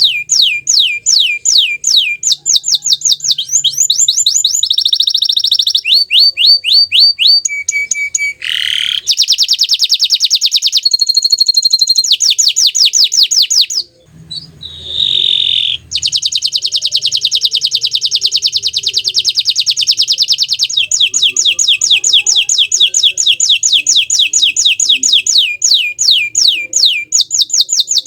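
Domestic canary (bottle-green colour variety) singing a long, continuous song of fast repeated trills and rolls that change in pattern every few seconds, with a brief break about fourteen seconds in.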